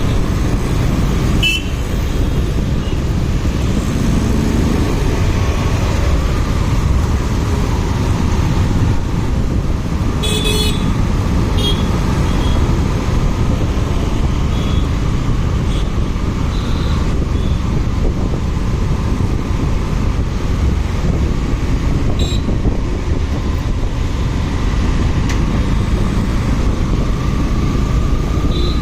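A motorcycle riding in road traffic: steady heavy rumble of wind and road noise on the microphone over the running engine, whose pitch rises near the end, with a few short sharp sounds, one of them about ten seconds in.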